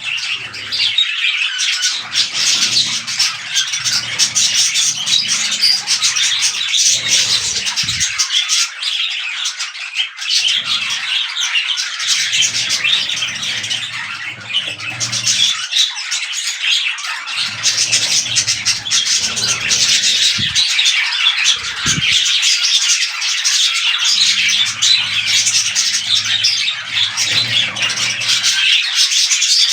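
Budgerigars chattering, chirping and squawking without a break, a dense warble of many quick notes. Underneath, a low hum comes and goes every few seconds.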